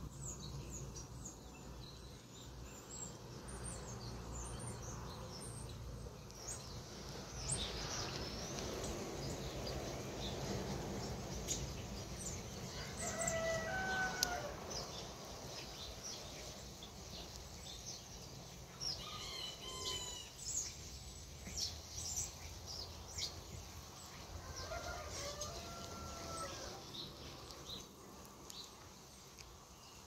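Birds chirping and calling outdoors: many short high chirps, with a few longer, louder calls about a third, two thirds and five sixths of the way through.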